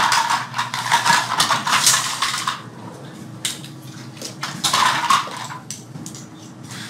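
Small toy-airplane parts clattering and clicking as they are handled, fitted together and dropped into containers, busiest in the first couple of seconds and then more scattered.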